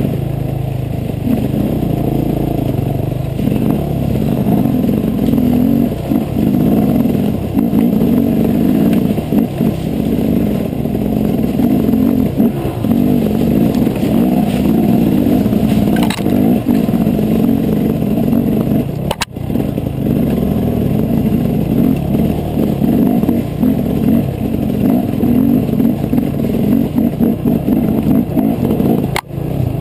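KTM EXC enduro motorcycle engine running under load as the bike climbs a rough, steep trail. The sound dips sharply twice, about two-thirds of the way through and near the end.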